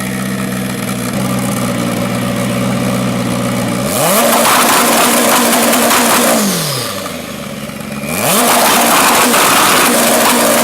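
A big turbocharged engine idling steadily, then revved hard twice, each rev held for two to three seconds before dropping back.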